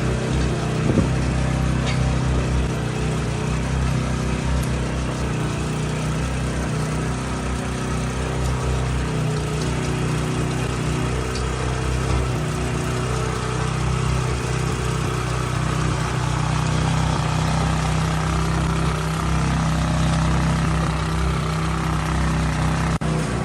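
Steady, continuous motor drone with a low hum that holds the same pitch throughout.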